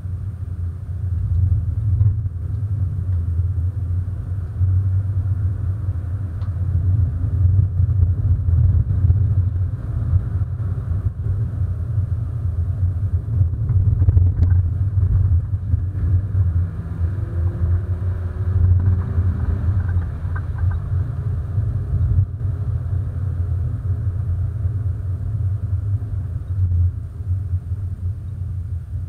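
Hyundai Coupé 1.6 16v four-cylinder engine running at a slow parade pace, heard as a steady low rumble of engine and road noise from the car.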